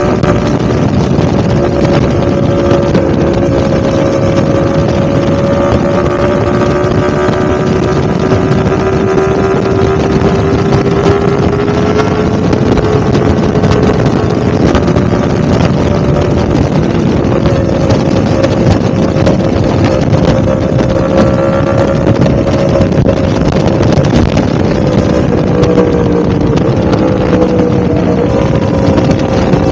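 Yamaha YZF-R1M's crossplane inline-four engine running at fairly steady revs, its pitch drifting slowly up and down, with wind noise on the microphone.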